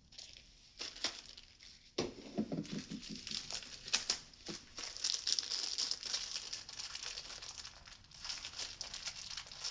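Plastic parts bag being crinkled and pulled at by hand while trying to tear it open, with dense crackling from about two seconds in.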